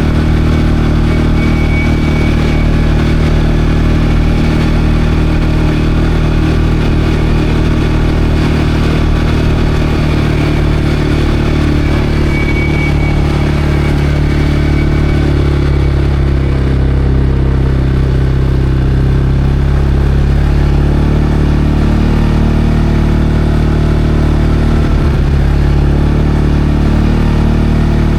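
CFMOTO Cforce 520L quad's single-cylinder four-stroke engine running steadily under way, with tyre and gravel noise. The engine note dips for a few seconds past halfway, then rises again.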